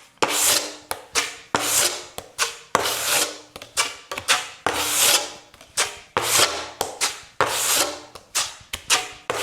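Filler being mixed up with a knife: repeated scraping strokes, about one a second, each with a brief faint squeal.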